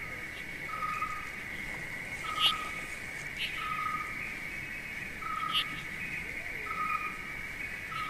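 Forest ambience. A bird repeats a short, even whistled note about every one and a half seconds over a steady high buzz, with a few sharp high chirps; the loudest chirp comes about two and a half seconds in.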